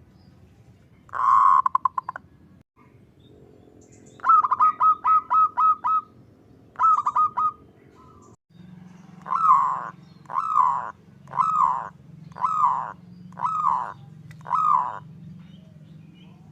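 Zebra dove (perkutut) calling: a short rapid rattling burst, then a quick run of short coos, then six slower downward-slurred coos about one a second. A low steady hum runs underneath.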